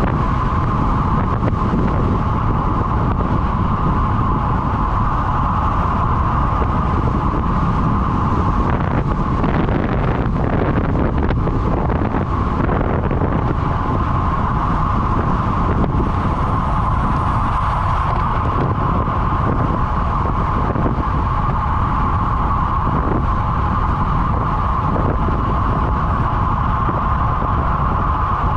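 Steady wind and road noise from a road bicycle ridden at speed in a time trial, with wind buffeting the microphone and a constant hum throughout.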